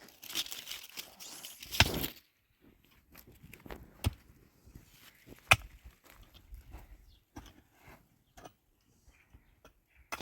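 Dry wood and brush being handled: rustling for about two seconds, then scattered sharp cracks and knocks, the loudest about five and a half seconds in.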